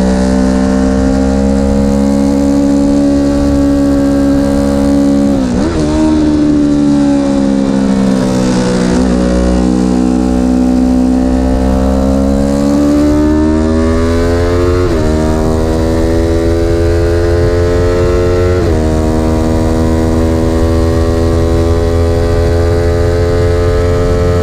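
Vehicle engine running hard and continuously, its pitch swelling and falling with several abrupt steps in pitch, as at gear changes.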